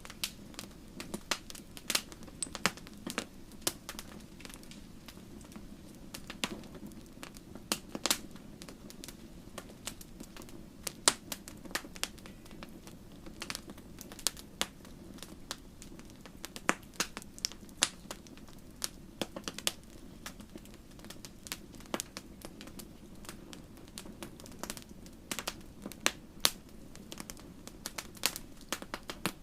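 Wood fire crackling: irregular sharp pops and snaps over a soft steady roar of burning.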